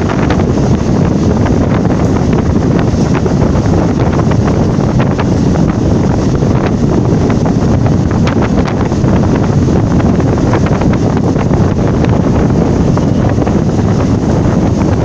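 Moving passenger train, a steady loud rush with heavy wind buffeting the microphone and faint scattered clicks throughout.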